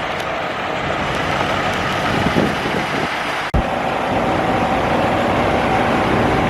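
Heavy truck engine idling steadily, with a sudden click about three and a half seconds in, after which a faint steady tone joins the engine.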